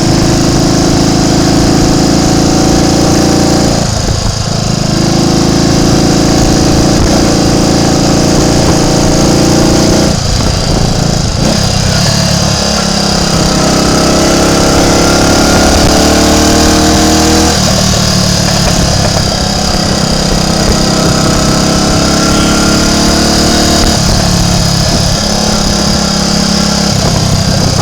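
Triumph Tiger Cub's single-cylinder four-stroke engine running on the road, its note shifting abruptly several times as the revs change.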